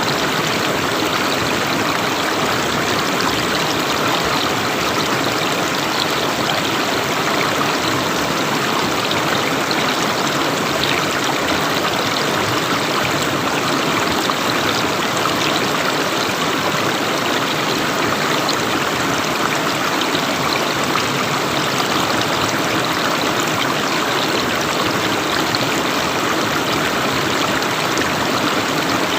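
River water flowing and rushing over stones, a steady, even sound.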